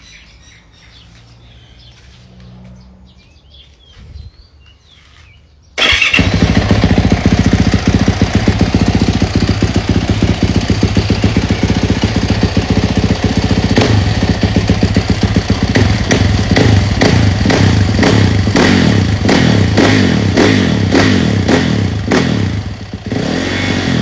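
A 2020 Yamaha YZ450F's 450 cc single-cylinder four-stroke engine starts abruptly about six seconds in and is revved hard. From about halfway on it bounces off the rev limiter, the ignition cutting in a regular stutter about twice a second, and it eases off briefly near the end. Before it starts there is only faint outdoor background.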